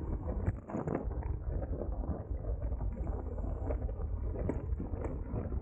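Wind rushing and buffeting over the microphone of a camera on a moving road bike, with a low road rumble beneath and a few faint knocks.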